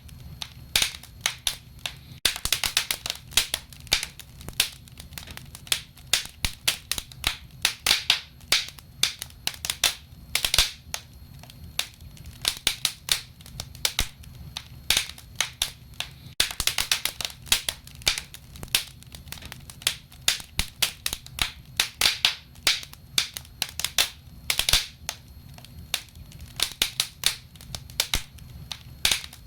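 Wood fire crackling and popping, with many sharp, irregular snaps over a low steady rumble.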